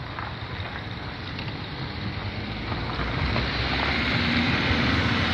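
Wind rushing over the microphone, a steady low rumble and hiss that grows louder over the last couple of seconds.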